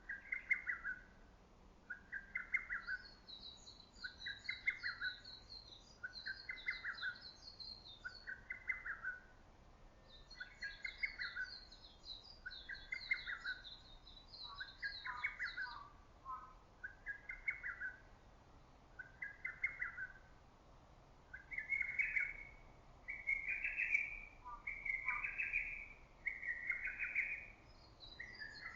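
Lesser cuckoo singing, repeating its short phrase about every two seconds and growing louder near the end. A second small bird's high, rapid chattering song runs over it in two stretches.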